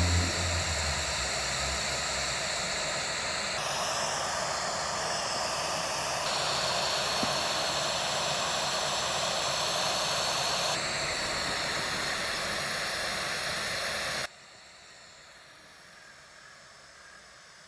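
Steady rushing hiss of wind on an outdoor eagle nest camera's microphone, changing in tone at several cuts and dropping to a faint hiss about fourteen seconds in.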